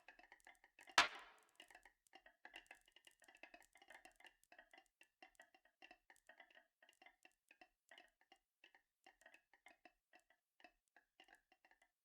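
Marbles rolling and clattering along a marble-run track: one sharp loud click about a second in, then a long run of faint, irregular ticks and rattles.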